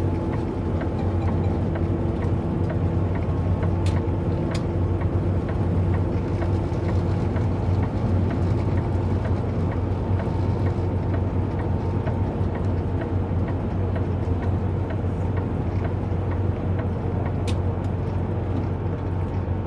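Semi-truck cab noise while driving: a steady low engine drone with road and tyre noise, unchanging throughout, with a few faint clicks.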